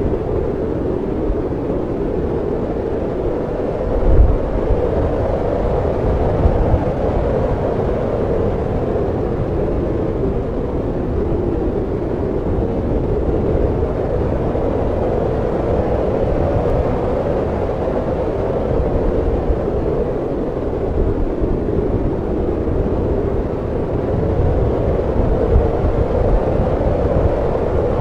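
Snowstorm wind blowing steadily, a dense rushing noise with a low rumble that swells and eases, and a stronger low gust about four seconds in.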